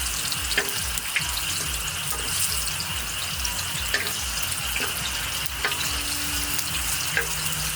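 Potato pancake batter sizzling in hot oil in a frying pan, a steady hiss with a few sharp pops and taps scattered through.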